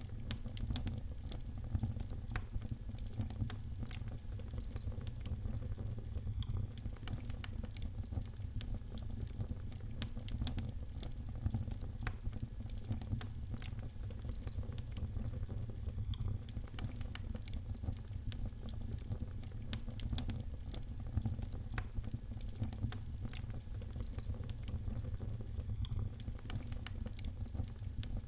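Wood fire burning in a fireplace: a steady low rumble of the flames with many small sharp crackles and pops throughout.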